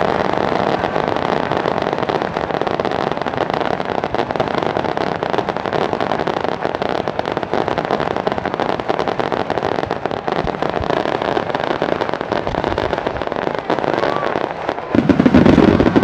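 Wide starmine fireworks finale: a rapid, continuous barrage of shells bursting, with dense crackling throughout. A louder, deeper blast comes near the end.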